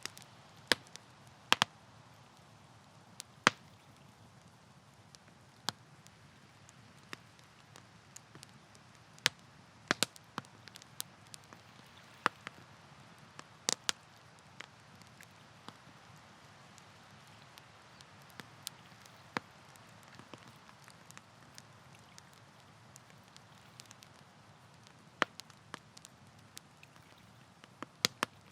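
Wood campfire crackling: irregular sharp pops and snaps, a few of them loud, over a soft steady hiss of burning.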